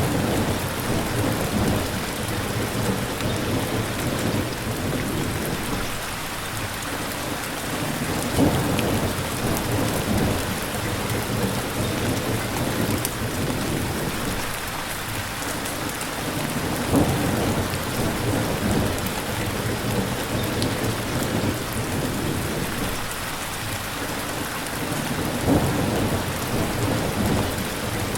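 Steady rain falling, with low thunder rumbles swelling up about three times at even intervals.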